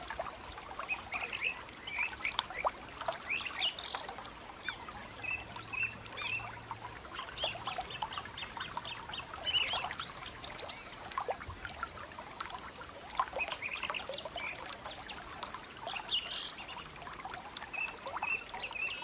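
Wild birds chirping, many short calls scattered throughout, over the faint trickle of running water.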